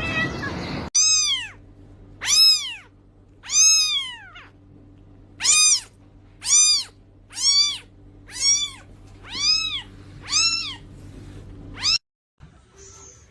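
Kitten mewing over and over, high-pitched calls that rise and fall, about one a second, crying from hunger.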